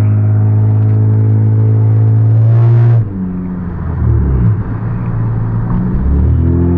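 Car engine heard from inside the cabin, running at steady revs for about three seconds, then cutting off abruptly as the throttle lifts, and picking up again more quietly.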